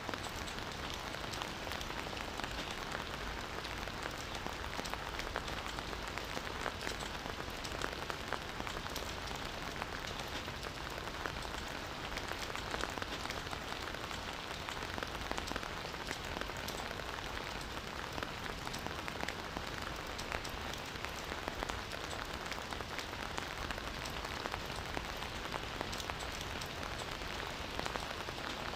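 Steady rain falling, with many individual drop hits ticking through an even hiss and no let-up.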